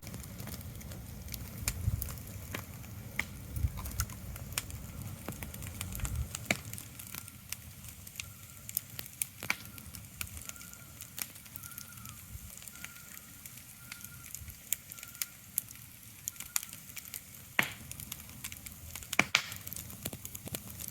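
Ambient crackling: irregular sharp clicks and pops over a faint steady background, with a low rumble that drops away about six seconds in. A faint run of short, evenly repeated high notes sounds in the middle.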